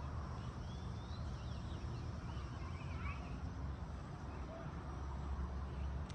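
Faint bird chirps in the first few seconds over a steady low outdoor rumble.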